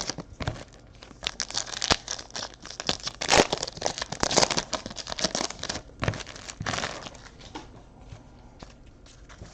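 Trading card pack wrappers being torn open and crinkled in repeated rustling bursts, dying down to quieter handling in the last couple of seconds.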